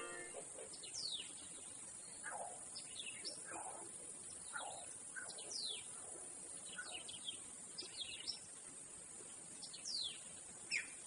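Birds chirping: many short, quickly falling chirps scattered over a faint steady hiss, as in an outdoor nature background.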